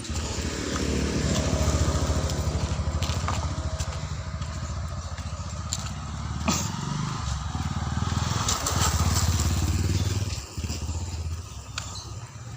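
A small motor-vehicle engine running, louder for a couple of seconds near the start and again later, with a few scattered clicks.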